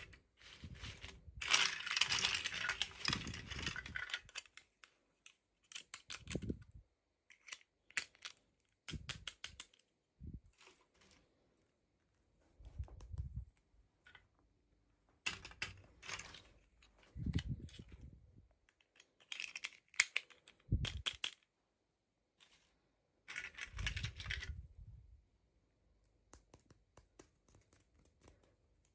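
Toy packaging and small plastic doll pieces being handled. It comes in stop-start bursts of rustling and crinkling with sharp clicks and taps.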